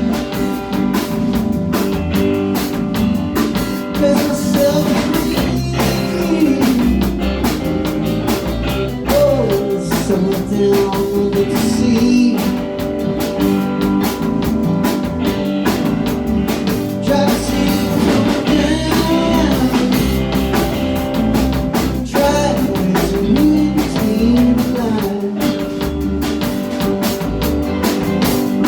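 Live rock band playing a song, with electric guitar, drum kit and vocals.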